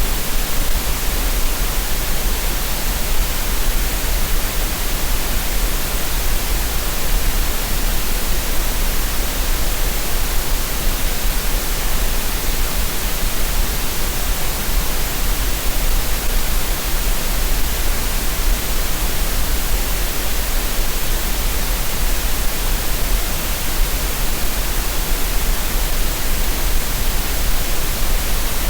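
Steady synthetic noise track of the kind sold as green noise for tinnitus relief: an even, unchanging hiss across the whole range, with a low rumble underneath.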